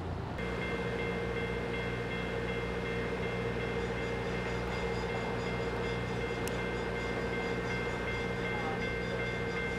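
Train at a signalled rail crossing: a steady chord of sustained tones that starts abruptly about half a second in and holds without a break.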